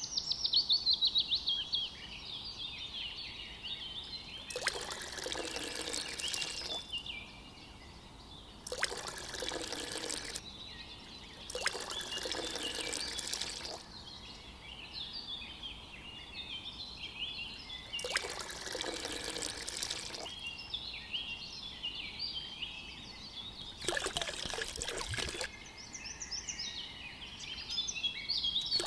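Water pouring in five separate spurts of one to two seconds each, over steady chirping of small birds.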